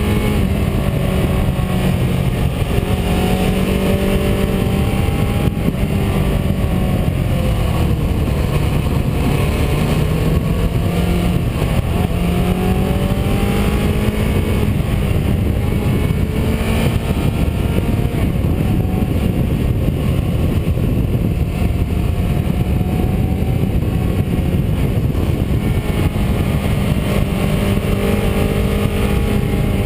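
Car engine running under way, its pitch rising and falling a few times as the revs change, over steady road and wind noise.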